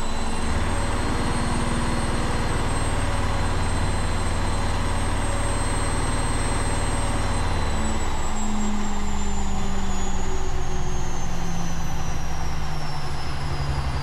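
Bush WMDF612W washing machine spinning its empty drum at high speed (1200 rpm) in the service test mode. A steady motor whine runs over a low drum hum. About halfway through, the whine begins to fall in pitch as the spin slows down.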